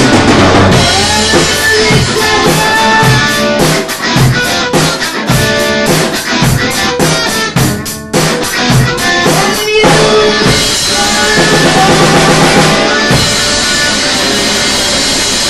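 Alternative rock band playing: electric guitar and drum kit with a steady beat, a brief break about eight seconds in, then sustained guitar chords over the drums.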